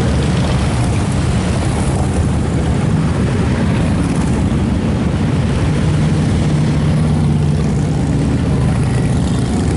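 Many motorcycle engines running together in a steady low drone.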